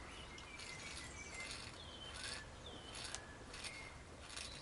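Faint birds chirping in short, scattered calls, with a few soft, brief rustles over a low background hiss.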